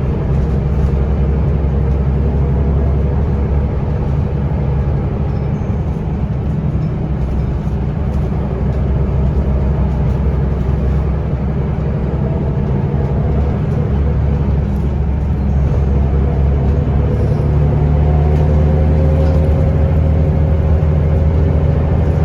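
Scania L94UB bus engine and ZF automatic gearbox running under way, heard inside the passenger cabin as a steady low drone. Near the end a whine rises in pitch as the bus picks up speed.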